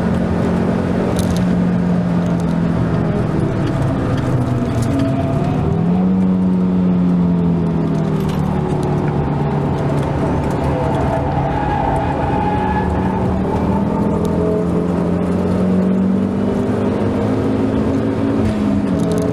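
Ford Focus ST225's turbocharged 2.5-litre five-cylinder engine heard from inside the cabin while the car is driven hard on a circuit. Its pitch sinks and climbs with throttle and gear changes, rising steadily for a few seconds near the end before dropping at a shift.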